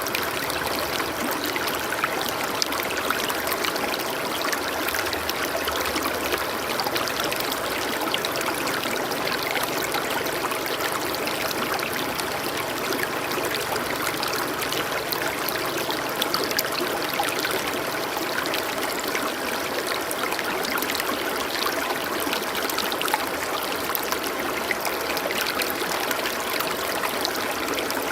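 Water flowing steadily over rocks in a stream, a constant splashing and trickling rush without pauses.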